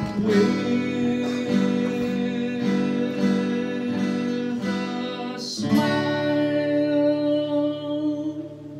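Acoustic guitar strummed in a steady rhythm. About five and a half seconds in, a last chord is struck and left to ring out and fade, closing the song.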